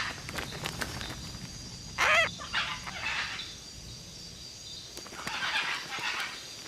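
Great green macaws calling: a few harsh squawks, one with a wavering pitch about two seconds in and another run of rasping calls near the end.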